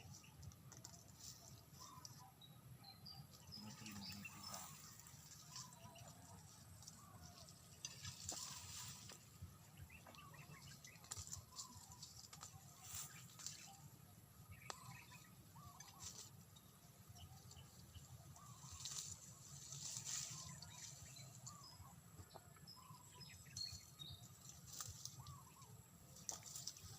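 Faint, scattered bird chirps, short and repeated throughout, with a few brief rustling sounds in between.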